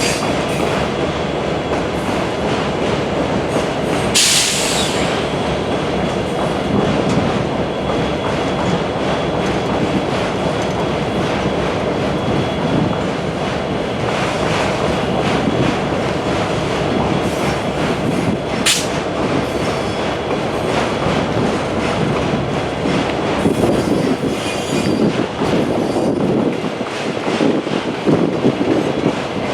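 Train rolling past at close range: steady noise of wheels on rail, with a brief high hiss about four seconds in and a short sharp squeal about two-thirds of the way through.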